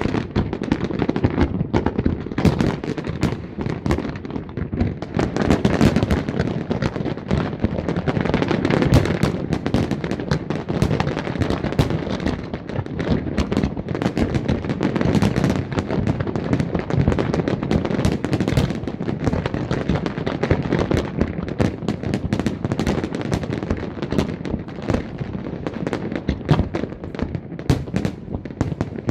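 Fireworks display going off in a dense, unbroken barrage of bangs and crackling.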